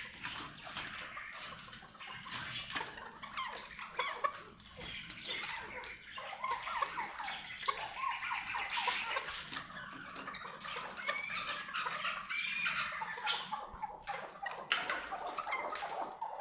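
Chukar partridge calling: a continuous run of short, quick chirping and clucking notes.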